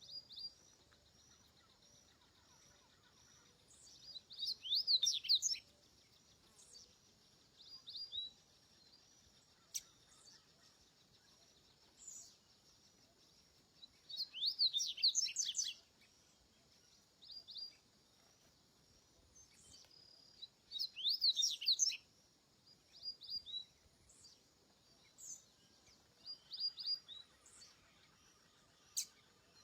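Double-collared seedeater (coleiro) singing: three loud phrases of rapid, twittering up-and-down notes, each about two seconds long and several seconds apart, with short chirps in between, over a faint steady high-pitched background.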